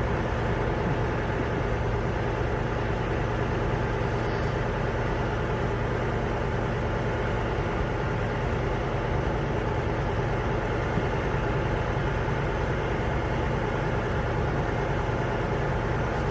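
Steady hum of a vehicle engine idling, unchanging throughout.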